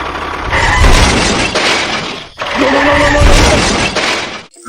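Two crashing, shattering noises in a row, each lasting about two seconds, with a short break between them.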